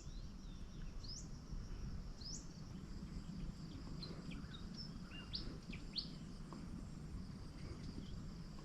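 Birds calling: a short rising chirp repeated about once a second in the first seconds, then a few scattered chirps, over a steady high insect drone and faint low background noise.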